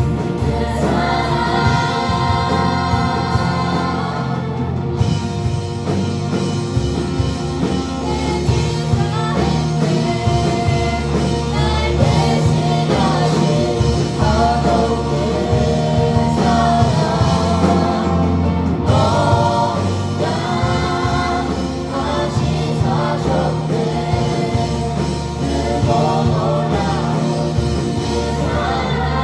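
A choir singing a Christian praise song over instrumental accompaniment, with sustained low notes beneath the voices.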